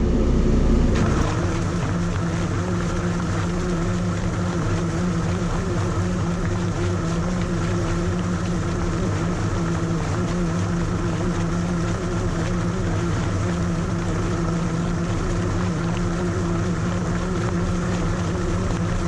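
A loader's diesel engine running steadily under load while a hydraulic VDW shredder bucket churns through waste vegetables. The engine note shifts and settles about a second in.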